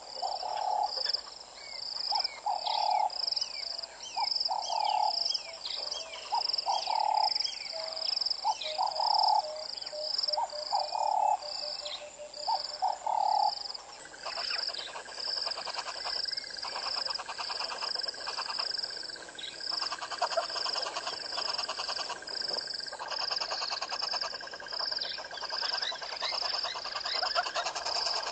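Outdoor wildlife chorus of birds calling and frogs. A steady run of short, high repeated chirps goes on throughout, with separate lower calls in the first half. About halfway through, a dense, buzzing trill joins in.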